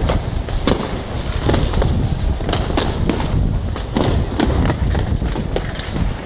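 Fireworks and firecrackers going off: many overlapping sharp bangs and cracks, several a second, over a constant low rumble.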